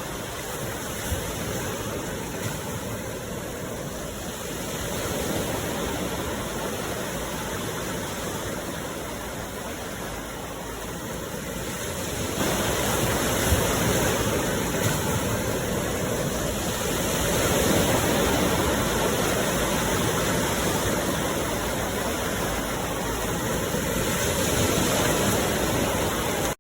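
Rushing water, like a waterfall or fast stream, a steady roar that gets louder about twelve seconds in.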